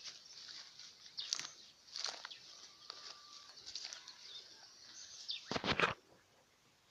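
Outdoor ambience with birds chirping briefly now and then and scattered clicks over a faint hiss, and a loud burst of noise about five and a half seconds in.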